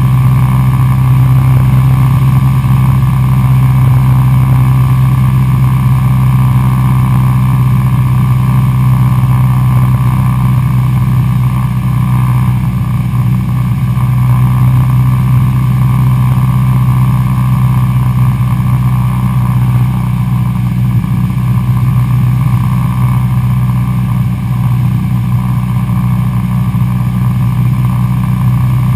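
Cessna 172SP's four-cylinder Lycoming IO-360 engine and propeller in flight: a loud, steady drone holding an even pitch.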